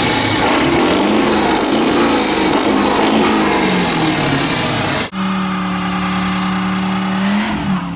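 1996 7.3-litre turbo diesel in a 1976 Ford F-600 revving, its note rising and falling. After an abrupt cut about five seconds in, it holds a steady note.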